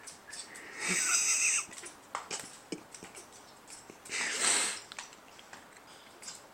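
Pet bird giving two raspy, wheezing calls during courtship-mating behaviour, about a second in and about four seconds in, with a few light clicks between them.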